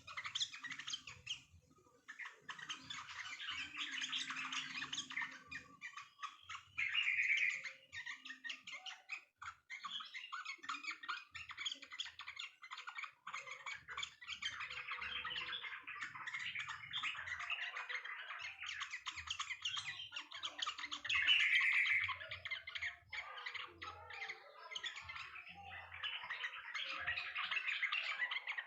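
Songbirds chirping in a dense, rapid, overlapping stream of short chirps and squawky calls, with brief lulls about two and nine seconds in.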